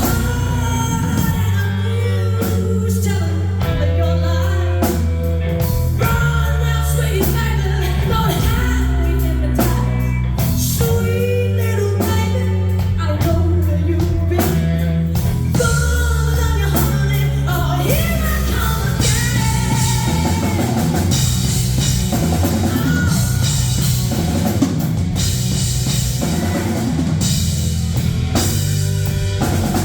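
Live rock band with drum kit, bass and guitar, a woman singing over it; the drums and cymbals get busier in the later part.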